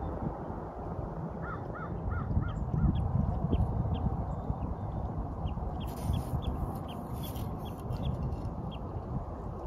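Bird calls over a low outdoor rumble of wind: a quick run of five short rising-and-falling calls about a second and a half in, then faint, short, high chirps scattered through the rest.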